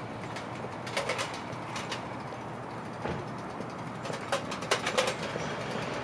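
Birds calling over a steady outdoor background, with short bursts of clicking about a second in and again between about four and five seconds in.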